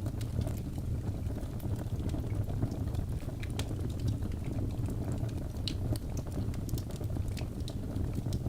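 Logs burning in a fireplace: a steady low rumble of the flames with frequent sharp crackles and pops scattered through it.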